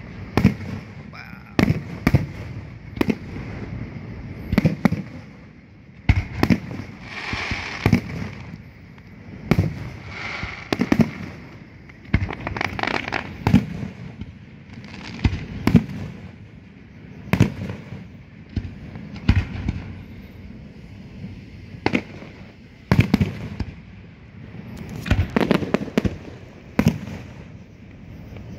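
Aerial firework shells bursting overhead: sharp bangs one after another at uneven spacing, often about a second apart.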